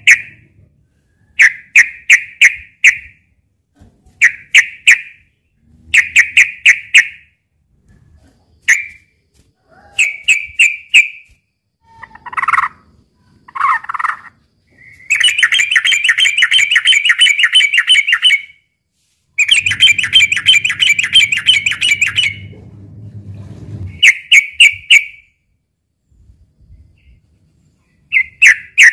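Sooty-headed bulbul (trucukan) calling: short bursts of three to five sharp, clipped notes every second or two. About halfway through come two long, fast chattering runs of a few seconds each, typical of the bird's excited fighting calls.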